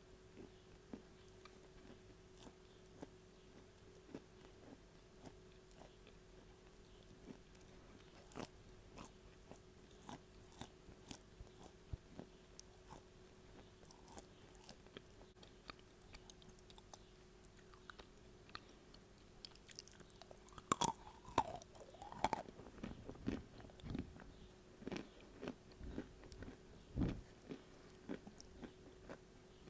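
Close-up mouth sounds of a person biting and chewing edible clay, picked up by an earphone microphone held at the lips: faint wet chewing with scattered small crunchy clicks. The chewing gets busier and louder about two-thirds of the way in.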